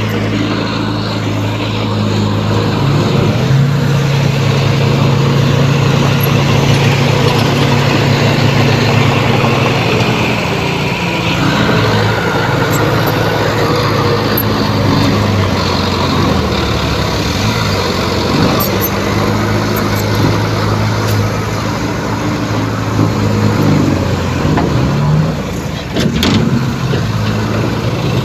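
Heavy diesel engine of earthmoving machinery running steadily under load. Its revs rise about three seconds in and ease back around twelve seconds, with a sharp knock near the end.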